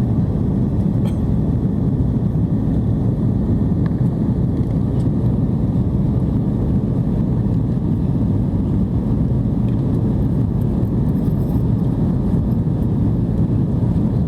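Airbus A330-300 airliner's steady low rumble of engines and airflow, even and unchanging throughout.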